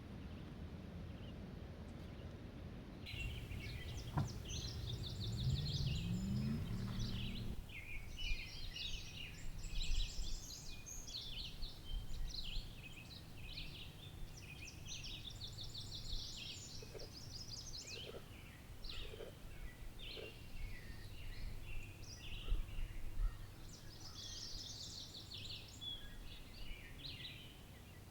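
Several songbirds singing and chirping outdoors, many overlapping phrases. For the first several seconds a passing vehicle's engine runs underneath, rising in pitch before it stops abruptly.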